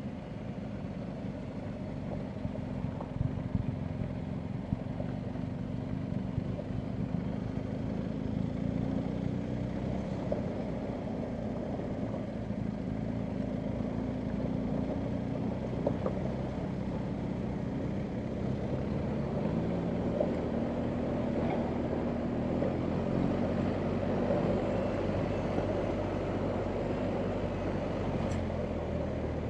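BMW R1250GS Adventure's boxer twin engine running at low revs on rough ground, its pitch rising and falling with the throttle. A few sharp knocks come over the top of it.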